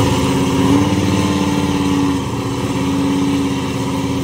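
Supercharged Cadillac CTS-V V8 drag car running loud at steady revs, its pitch rising slightly in the first half second and then holding level.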